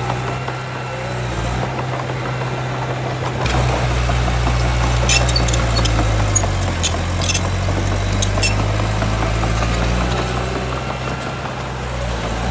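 Heavy diesel engine of earthmoving machinery running steadily, working harder from about three and a half seconds in until about ten seconds. Scattered sharp metallic clicks and squeaks come in the middle.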